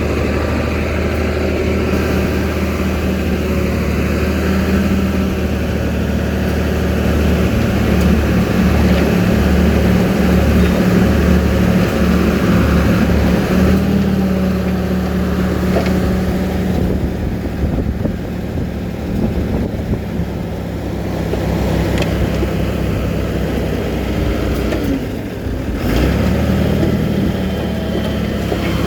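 Heavy diesel engine of earthmoving machinery running under load, with its note changing about halfway through.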